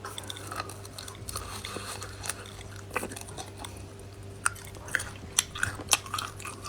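Close-miked chewing and biting of food, with scattered crunchy bites and short mouth clicks that come more often in the second half.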